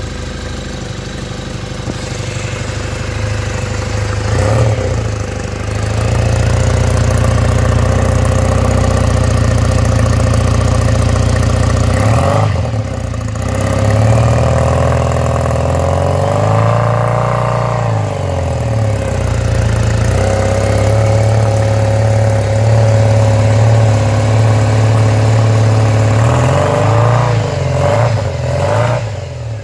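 2001 Triumph Bonneville's 790 cc air-cooled parallel-twin engine running through an old Triumph Tiger exhaust silencer, mostly holding a steady speed and revved up and back down several times.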